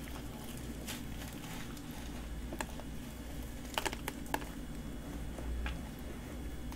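Quiet chewing of a soft, cream-filled cone pastry, with a few small sharp clicks and crackles from the mouth and flaky pastry over a low steady hum.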